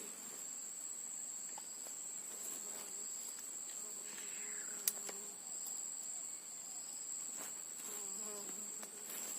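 Insects buzzing steadily at a high pitch, with a single sharp click about halfway through.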